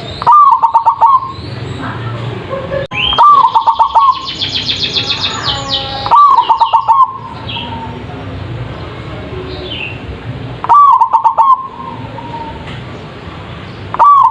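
Zebra dove (perkutut) singing its rapid, staccato cooing phrase five times, a few seconds apart, each phrase a quick run of notes at one pitch. About halfway through, a higher twittering from another small bird comes in briefly.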